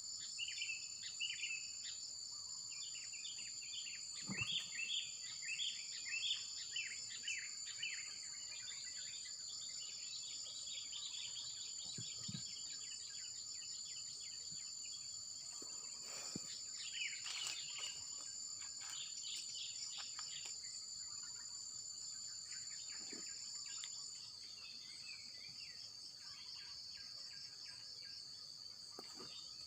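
Insects droning steadily in two high tones, the higher one dropping out late on, with birds chirping in quick clusters at the start and again midway.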